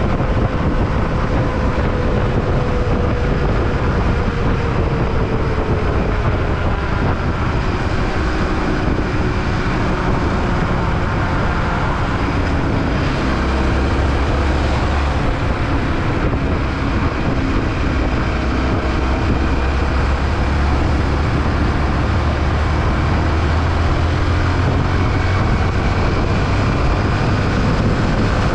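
Yamaha WR155 single-cylinder motorcycle under way, its engine note drifting slowly lower over the first several seconds, under a steady rush of wind and road noise.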